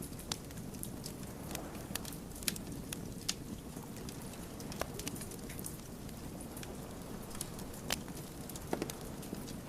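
Wood fire burning: irregular sharp crackles and pops from the burning logs over a steady low rush of the flames, with one of the louder pops about eight seconds in.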